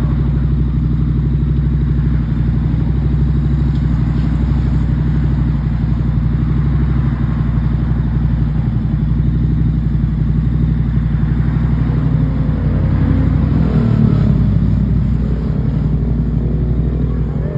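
Triumph Street Scrambler 900's parallel-twin engine running steadily, with one rev that rises and falls about three-quarters of the way through.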